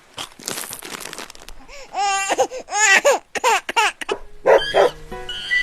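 Crackling rustle, then a quick run of high-pitched, laugh-like squeals; music starts near the end.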